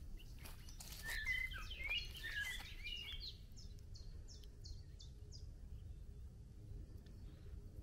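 A songbird singing: a quick, jumbled warble, then a run of about six short, evenly repeated high notes, over a steady low rumble.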